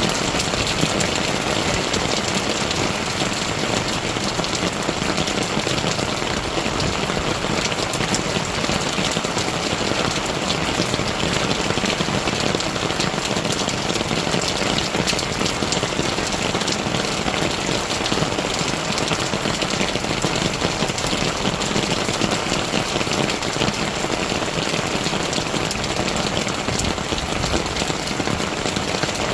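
Steady rain falling: an even hiss, thick with the ticks of individual drops striking a surface.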